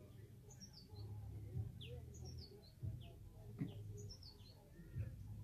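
A songbird singing a short phrase of high, falling notes, repeated about every two seconds, over a low outdoor rumble with a few soft thumps.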